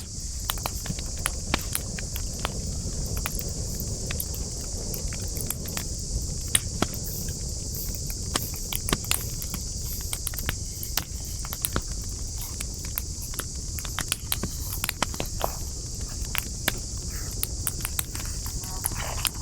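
Wood campfire burning: irregular sharp crackles and pops over a low rumble, with a steady high hiss running behind.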